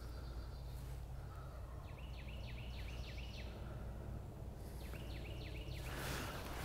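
A songbird singing two quick runs of repeated high, downslurred notes, one about two seconds in and a shorter one near the end, over a steady low hum.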